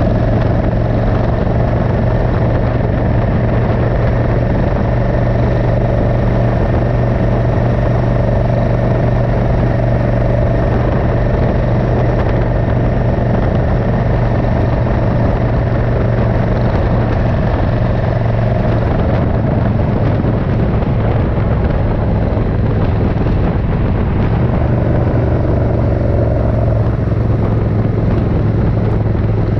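Suzuki Intruder 1400's air-cooled V-twin engine running steadily under way on the road, with a strong low engine hum and a wash of wind and road noise.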